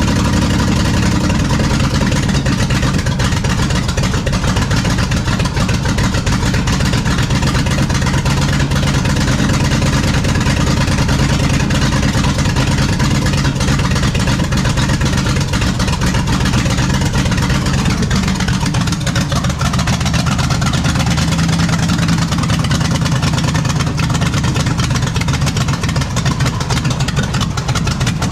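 NASCAR small-block V8 with a roller cam, fitted in a 1972 Mazda B1600 pickup, idling steadily.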